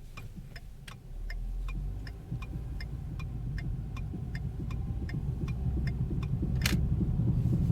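Regular ticking, about two to three a second, from a 2010 Ford Focus's wheel as the car rolls slowly, over a low road rumble that grows louder as it picks up speed, with one sharper click near the end. The driver places the noise at the right rear tire.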